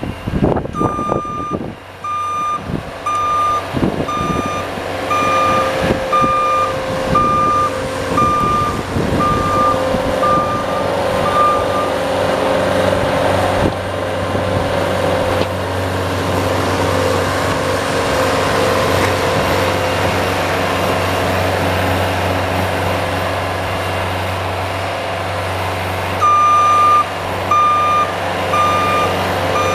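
A vehicle's reversing alarm beeping in an even series over a running engine. The beeping stops about twelve seconds in, leaving the engine running steadily, and starts again near the end.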